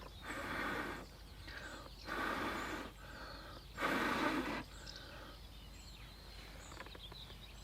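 A person blowing three long breaths into a smouldering tinder bundle to bring the ember to flame, each blow just under a second, about a second apart.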